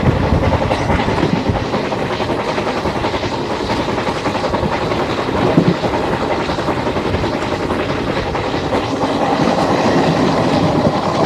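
Passenger train running at speed, heard from an open coach doorway: a steady rush of wind and rolling wheels, with the wheels clattering over the rail joints and one louder knock about halfway through.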